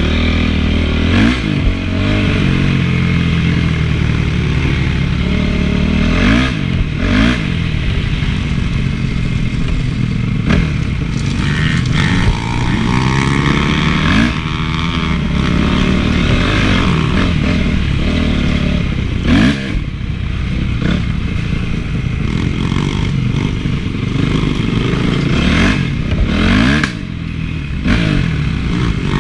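Honda CRF450 four-stroke motocross engine being ridden hard, revving up and down again and again as the rider works the throttle and gears, with clatter and knocks from the bike over rough ground.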